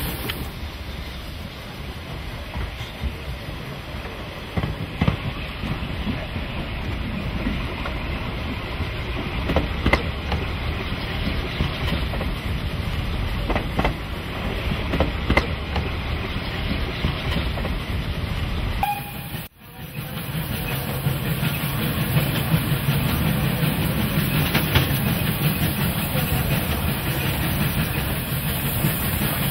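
Narrow-gauge steam train running, its wheels clicking over the rail joints above a steady rumble and hiss. The sound cuts out briefly about two-thirds of the way through, then comes back with a deeper rumble.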